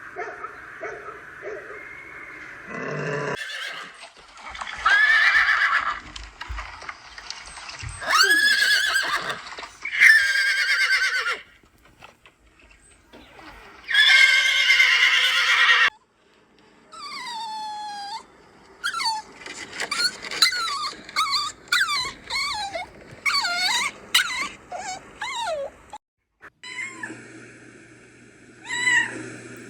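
Horse whinnies, loud calls with falling pitch, in the first half, followed by many short high-pitched chirps in quick succession and then another animal's call near the end.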